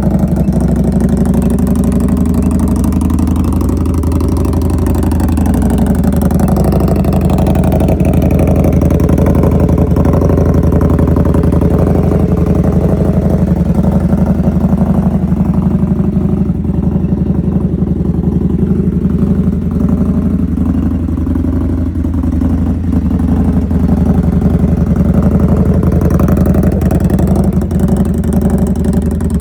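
2025 Indian Scout Bobber's liquid-cooled V-twin running near idle through an aftermarket Freedom Performance exhaust. It runs steadily and loudly, with the pitch swelling gently up and back down a couple of times.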